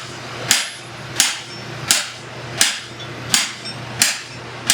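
Blacksmith's hammer striking hot steel on an anvil in a steady rhythm, about seven blows at roughly one and a half a second, over a steady low hum.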